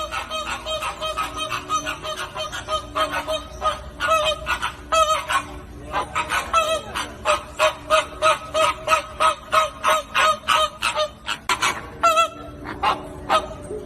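A flock of flamingos calling: many short, repeated calls overlapping one another, several a second.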